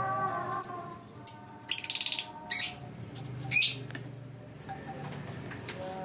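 Lovebird giving a series of short, sharp, high-pitched chirps, with a rapid buzzy chatter about two seconds in.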